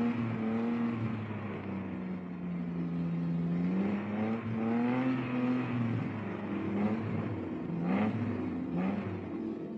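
Racing car engines on a street circuit, revving through corners with the engine note rising and falling as the cars accelerate and ease off. Several short rising sweeps come about halfway through and again near the end.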